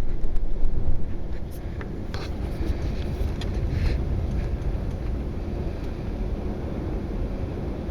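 Thunder rumbling low and long from a lightning storm, loudest in the first second and a half and then settling into a steady rumble.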